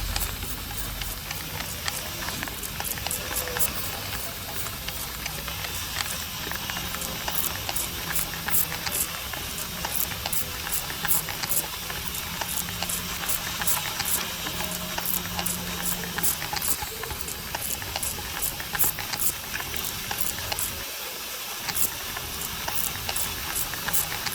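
Factory floor ambience: a steady hiss with frequent short, sharp clicks and a faint low hum underneath.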